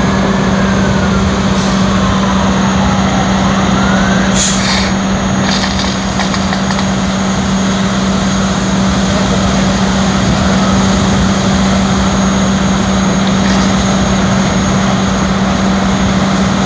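A large engine running steadily with a loud, even hum. A few brief crackles come about four to six seconds in.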